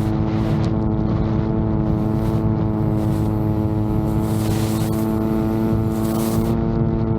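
VTOL drone's motors and propellers running at a steady, unchanging pitch, with strong wind buffeting the microphone in gusts.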